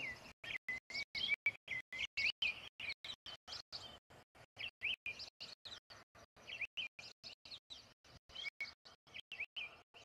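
A small bird chirping in quick rising and falling notes, the sound chopped into rapid pulses about four to five times a second; it grows softer and sparser after the first few seconds.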